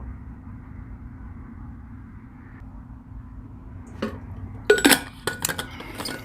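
Low steady background hum, then a quick run of sharp clicks and clinks from objects being handled on a table, starting about four seconds in.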